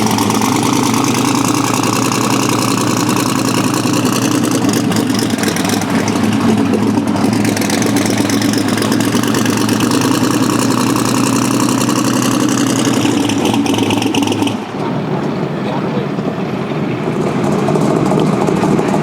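A drag car's engine idling steadily and loudly. About fifteen seconds in, the sound changes abruptly and its hissy upper range drops away while the engine keeps running.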